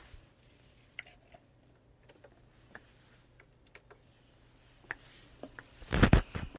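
Scattered light clicks and taps in a small room, then a brief cluster of loud knocks near the end.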